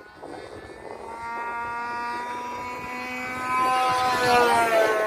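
Fuel-burning engine of a radio-controlled model airplane buzzing steadily as the plane flies. It grows louder as the plane comes closer, is loudest about four seconds in, and its pitch drops a little near the end as it passes by.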